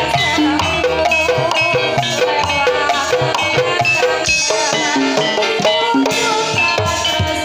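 Javanese gamelan music for an ebeg (kuda kepang) horse dance: metal-keyed instruments striking an even run of notes over drums, with a wavering melody line above.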